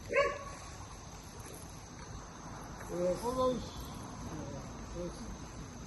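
Steady high-pitched chorus of insects, with a few short pitched sounds, a voice or an animal, near the start and around the middle.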